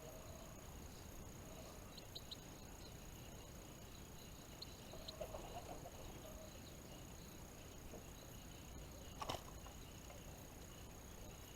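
Faint, short chirps of small songbirds, a few around two seconds in and again near five seconds, over a steady faint high-pitched whine. There is a soft rustle around the middle and a single sharp click about nine seconds in.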